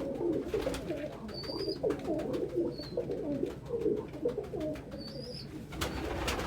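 A flock of domestic pigeons cooing, many low wavering coos overlapping one after another, with a few thin high chirps and scattered short clicks among them.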